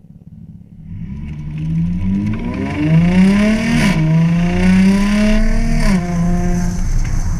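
Audi S4's supercharged 3.0 V6 through a modified exhaust (Armytrix system with Vibrant resonators and an X-pipe) accelerating hard: the engine note climbs from about a second in, drops sharply at an upshift near the middle, climbs again and drops at a second upshift, then holds steady.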